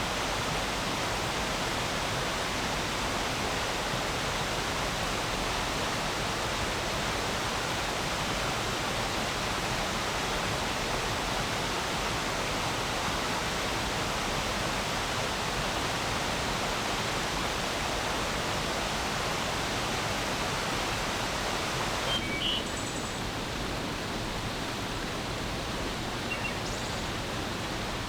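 Flowing stream water rushing steadily, a little softer in its upper range after about three quarters of the way through. A few brief, high bird chirps come in about three quarters of the way through and again near the end.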